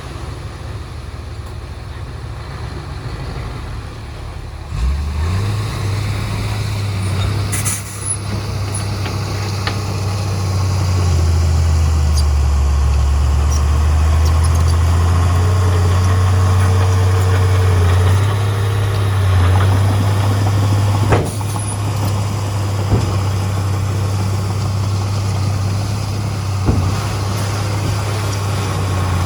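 Heavy diesel engine of construction machinery running with a steady low rumble. It gets louder and deeper about five seconds in and again a few seconds later, as if working under load. A couple of short sharp sounds cut through it along the way.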